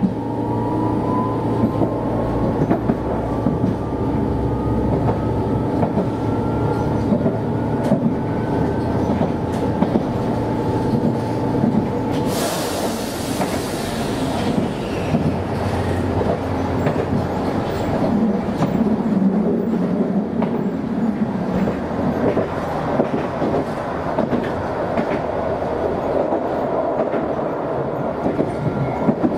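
Chikuho Electric Railway train heard from inside the car while running along the line, its motor whine rising slowly in pitch as it gathers speed over the first several seconds and the wheels clicking over the rail joints. About twelve seconds in there is a brief burst of hiss lasting a couple of seconds.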